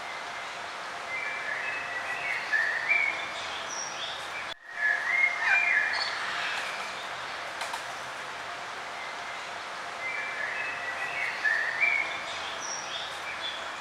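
Songbirds singing in short, chirping phrases that come in three bouts, over a steady background hiss. The sound cuts out for an instant about four and a half seconds in.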